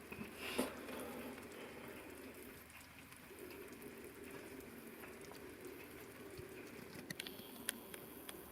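Braising liquid simmering with a faint, steady bubbling, with a soft knock about half a second in and a few light clicks near the end.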